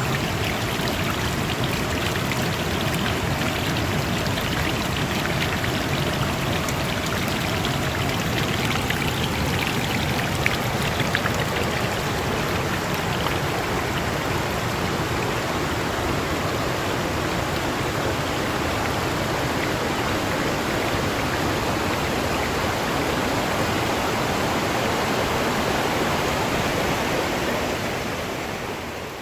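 Stream water rushing steadily, fading out near the end.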